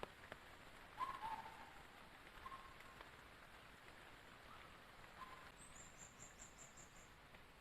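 Faint forest ambience in rain: a soft steady hiss with a few faint drip clicks, short animal calls every second or two, and a quick high trill of about seven notes near the end.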